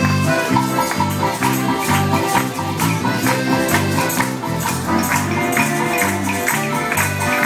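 Live Mexican popular music, an accordion and guitars over a steady beat of low notes, with hand tambourines jingling on the beat.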